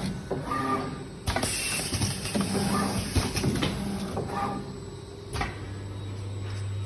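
Mudguard screen printing machine running through its cycles: repeated short motor whines with sharp clunks, then a steady low hum near the end.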